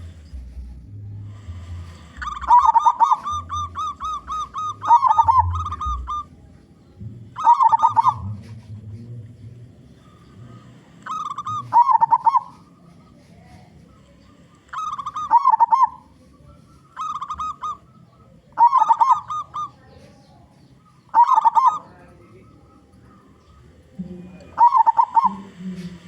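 Zebra dove (perkutut) cooing in repeated phrases of quick staccato notes: a long rapid run about two seconds in, then shorter phrases every two to three seconds.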